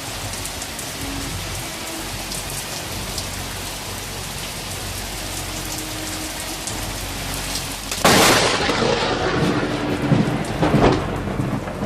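Steady heavy rain, then about eight seconds in a sudden, loud crack of thunder from a close lightning strike, which keeps going, loud and uneven, to the end.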